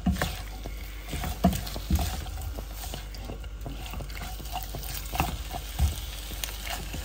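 Diced chicken frying in a dark pan, hissing steadily while a wooden spatula stirs it, with irregular knocks and scrapes of the spatula against the pan.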